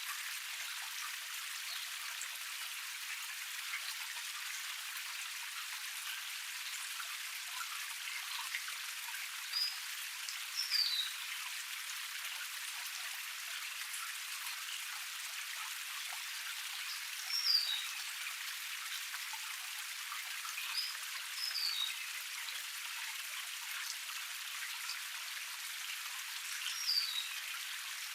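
Small forest waterfall cascade splashing and trickling steadily. A bird calls over it with short, high, falling chirps, several times.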